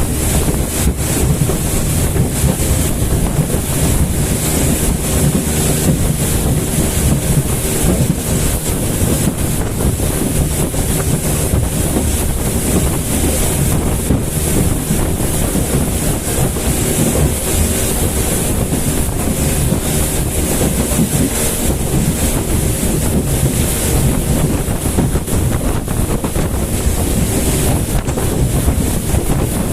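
Motorboat running at speed: a steady engine drone under wind buffeting the microphone and the rush of water.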